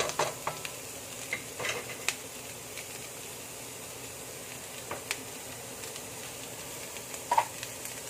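Minced meat sizzling steadily in a wok, with a wooden spatula knocking and scraping against the pan several times in the first two seconds and a few more times later.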